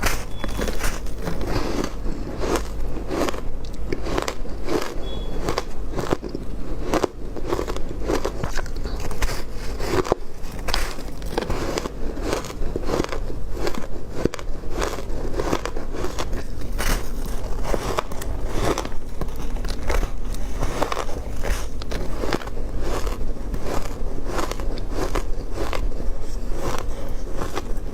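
Ice being bitten and chewed close to the microphone: a continuous run of sharp crunches and crackles, several a second.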